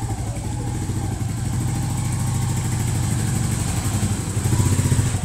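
Royal Enfield Meteor 350's single-cylinder engine idling with an even, low exhaust beat, swelling briefly near the end.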